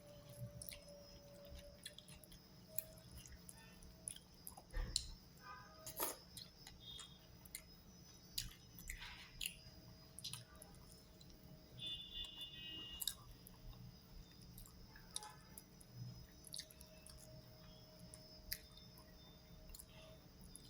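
Faint eating sounds: a person chewing ghee rice and fried chicken, with scattered small wet clicks and smacks at irregular intervals.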